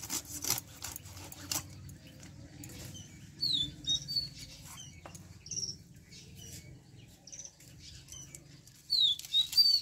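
A small bird chirping in quick, high, falling notes, one burst a few seconds in and a louder one near the end. There are a few sharp clicks in the first couple of seconds, over a low steady hum.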